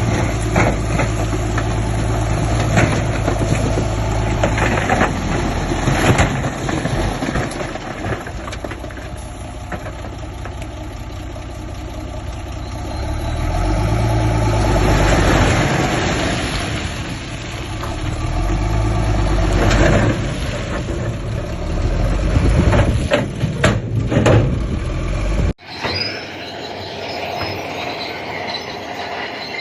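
Heavy diesel bulldozer engine running under load as it pushes fill, its note swelling and easing several times, with sharp clanks and knocks a little before the end. About 25 seconds in, the sound cuts off abruptly to a thinner, lighter sound.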